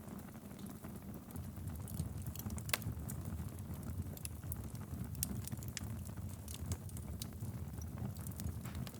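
Wood fire burning in a fireplace: a steady low rumble of flames with irregular crackles and sharp pops from the logs, one louder pop a little under three seconds in.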